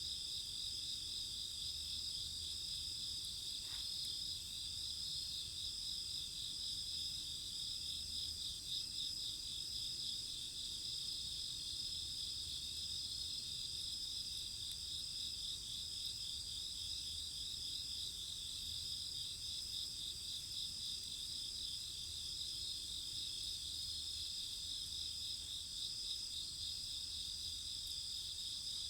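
Chorus of crickets trilling steadily and unbroken, several high-pitched pulsing calls overlapping.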